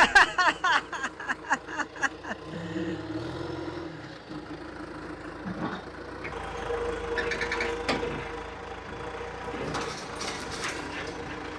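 Heavy equipment engine running steadily under a working load, with a steady hum that grows louder from about six to ten seconds in.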